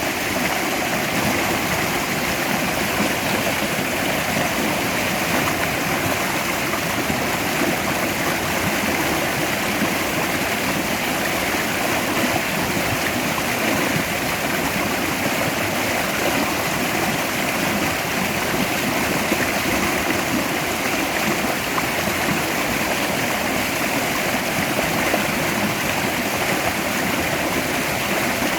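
Mountain stream rushing steadily over rocks, a constant loud water noise.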